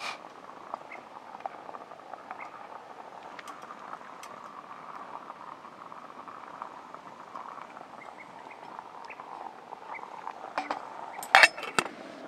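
A steady soft hiss with scattered small ticks, then a quick cluster of sharp clinks, like metal or glass knocking, near the end.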